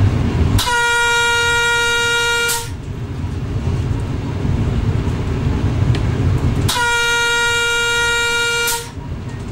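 Air horn of an X11 electric multiple unit sounded twice, two long single-pitch blasts about two seconds each, some four seconds apart, over the low rumble of the train running.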